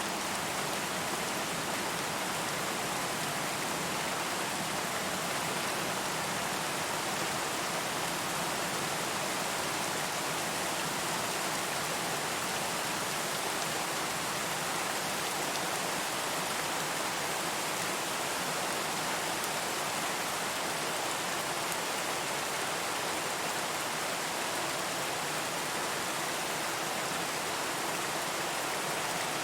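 Steady rain falling, an even hiss with no thunder or distinct drops standing out.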